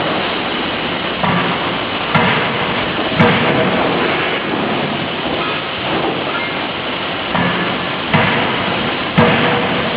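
50 kJ closed-die forging hammer striking several heavy blows at uneven intervals, over a steady loud din of noise.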